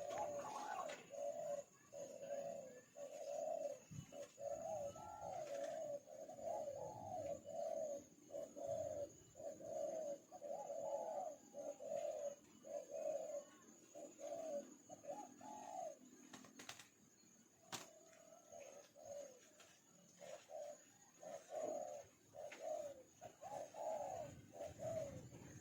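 A bird calling with a long series of low, hollow cooing notes, about one or two a second, with a short pause about two-thirds of the way through.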